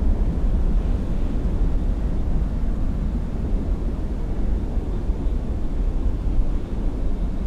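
Steady low rumble of boat engines running, with no clear pitch and no break.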